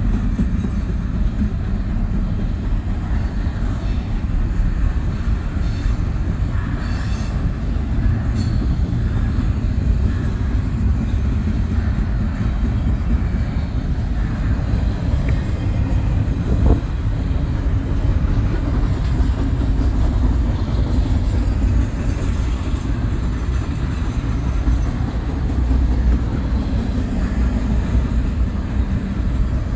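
Double-stack intermodal well cars of a long freight train rolling past: a steady, heavy rumble of steel wheels on rail, with a brief clank about seventeen seconds in.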